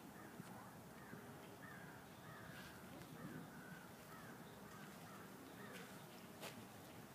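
Faint bird calls: a run of short wavy calls, about two a second, that starts about a second in and stops after about five seconds, over quiet outdoor ambience. A single sharp click near the end.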